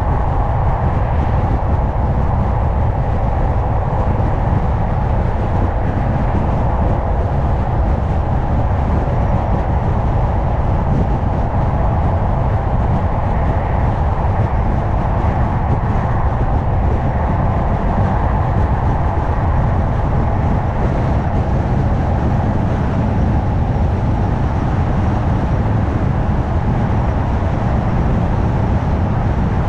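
Car driving along a road: a steady tyre and engine rumble that holds an even level, with no gear changes or braking heard.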